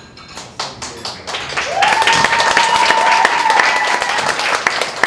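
Audience applause, starting as scattered claps and building into steady clapping about a second and a half in. In the middle, a single whistle-like tone rises and holds for about two seconds.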